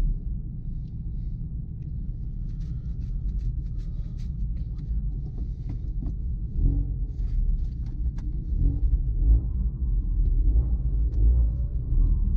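Mk3 Ford Focus RS on the move, heard as a steady low rumble of engine and road noise, with scattered small clicks and rattles.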